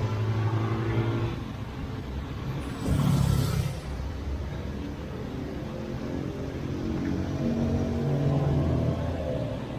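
Road traffic: motor vehicle engines running, with one louder vehicle passing close about three seconds in.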